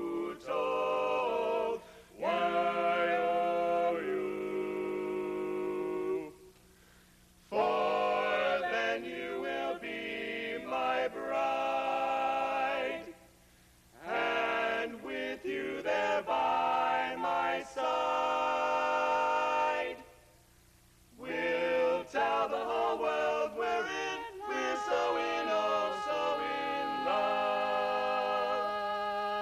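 Barbershop quartet singing a cappella in close four-part harmony, holding chords, with three short breaks in the singing about six, thirteen and twenty seconds in.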